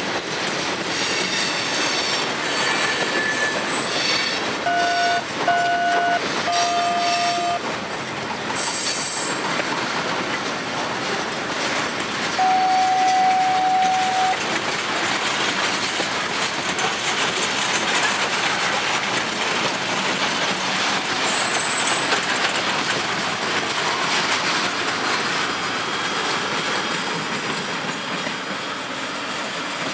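Freight train of tank cars and boxcars rolling past close by, a steady rumble of wheels on rail with clickety-clack and high flange squeal in the first few seconds. A train horn sounds two short blasts and a longer one about five seconds in, then one long blast about twelve seconds in.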